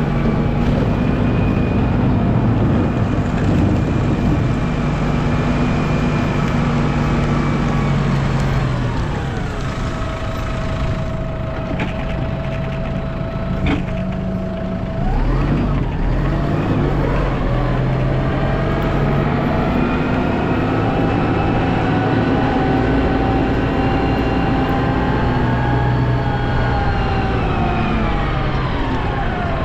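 Snow plow vehicle's engine running under load: its pitch drops off around nine seconds in, climbs back up a few seconds later, and falls again near the end.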